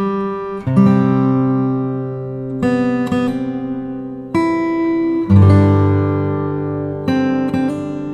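Background music: acoustic guitar playing ringing chords, a new chord struck every second or two and left to fade.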